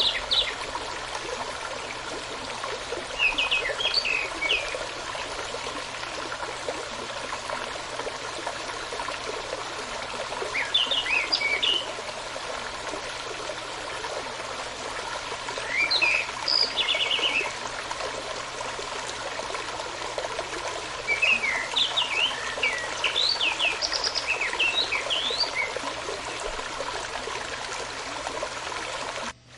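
Steady rush of a running stream, with a songbird singing short phrases of quick chirps and trills about five times.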